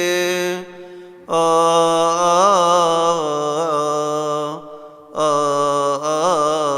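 A solo male voice chants a Coptic Orthodox hymn unaccompanied. He holds long notes decorated with wavering melismatic ornaments and breaks off twice briefly for breath.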